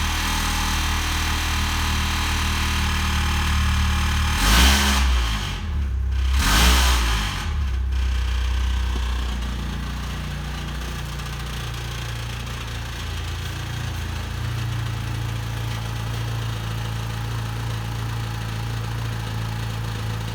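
Opel Vectra B's 1.8-litre X18XE1 sixteen-valve four-cylinder petrol engine running just after starting. It idles, is revved twice about five and seven seconds in, then settles back to a steady idle that rises slightly in pitch near two-thirds of the way through.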